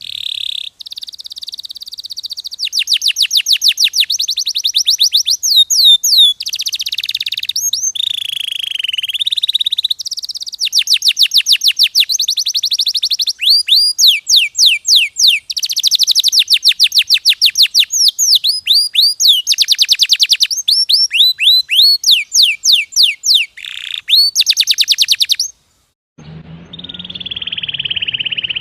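Domestic canary singing a long, loud song of rapid trills, each phrase a quick run of the same repeated note before it switches to a new one. The song breaks off briefly near the end.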